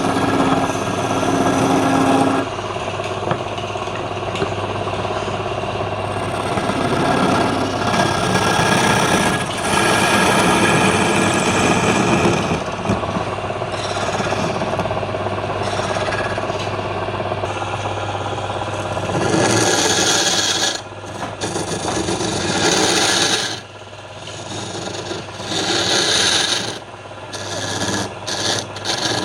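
Wood lathe running with a steady motor hum while a tool scrapes against the spinning palm wood in a continuous rasping. The scraping lets up for moments several times near the end.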